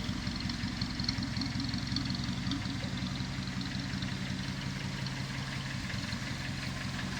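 1937 Vauxhall H 10/4's four-cylinder engine idling steadily and evenly.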